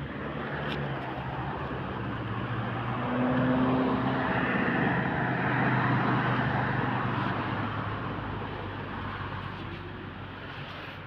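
A passing vehicle's engine and rushing noise, growing louder to a peak about halfway through and then slowly fading away.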